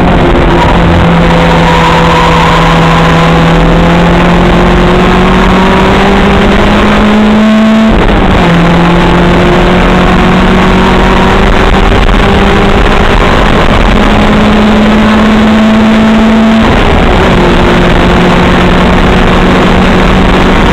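Opel Kadett race car's engine under hard acceleration, heard loud from the onboard camera, its pitch climbing slowly and steadily and dropping sharply twice, about 8 and 17 seconds in. Heavy wind and road noise run under it.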